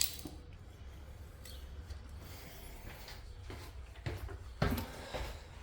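Footsteps scuffing and knocking on a gritty floor, a few of them from about four seconds in, over a steady low rumble of wind on the microphone.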